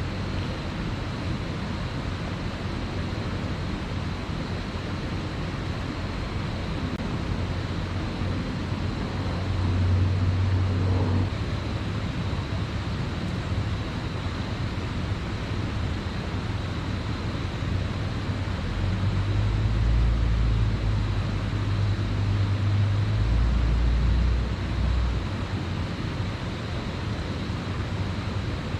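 Steady rushing of a creek's small waterfall, with a deep rumble swelling in twice, about ten seconds in and again for several seconds near the end.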